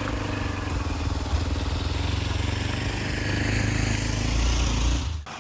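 Hero Xpulse 200 4V's single-cylinder engine running steadily while the motorcycle is ridden. The sound cuts off abruptly just before the end.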